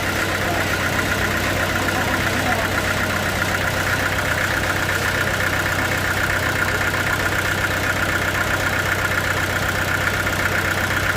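Sawmill machinery running steadily: an even engine-like hum with a high whine that grows stronger through the middle.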